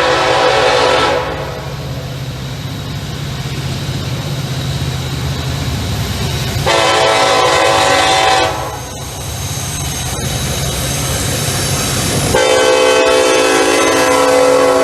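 Diesel freight locomotive horn sounding in blasts: one ends about a second in, a second of about two seconds comes near the middle, and a longer one starts near the end. Between the blasts the locomotive's low engine rumble and passing rail cars are heard.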